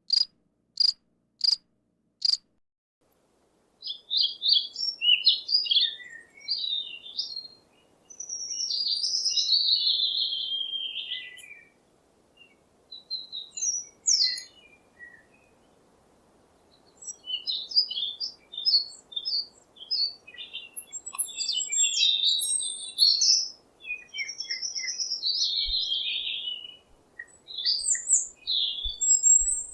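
A songbird singing a long run of varied chirps, trills and sweeping whistled phrases, with short pauses between them. It starts after a few regular insect chirps, about two a second, that stop about two seconds in.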